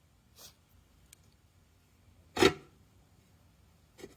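A few brief rubbing and knocking handling noises, one much louder about halfway through and a shorter one near the end.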